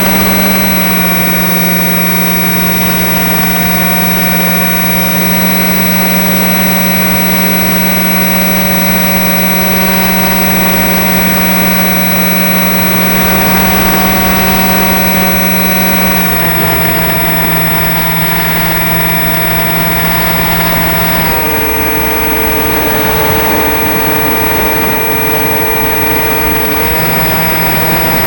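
Aero Scout RC plane's electric motor and propeller whining steadily in flight, the pitch stepping down about two-thirds of the way in and shifting again near the end as the throttle changes.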